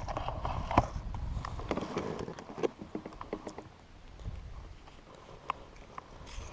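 Scattered clicks and knocks of gear being handled aboard a fishing kayak, busiest in the first few seconds and then quieter.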